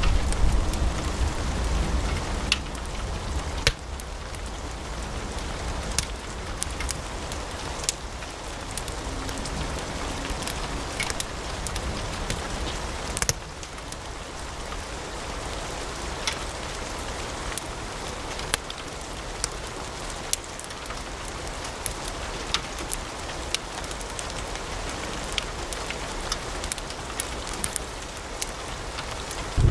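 Wood fire in a fireplace crackling, with a steady hiss and many small sharp pops from the burning logs. A low rumble dies away about four seconds in.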